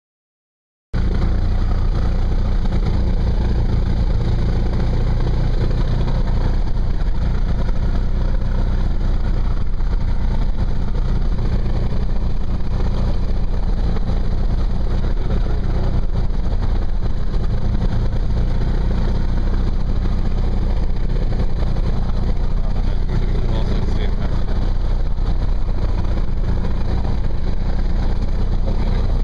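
Cessna 172's piston engine and propeller running at a steady drone. The sound cuts in abruptly about a second in.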